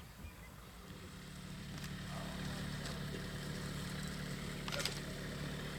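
Vehicle engine running steadily. It comes up about a second in, with a couple of short clicks.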